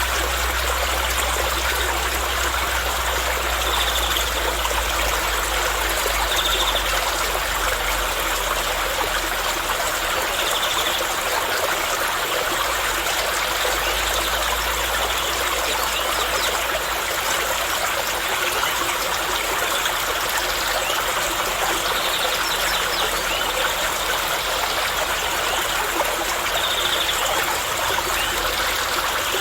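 Water flowing steadily in a stream, a continuous trickling rush with no break, with a few short high chirps every few seconds.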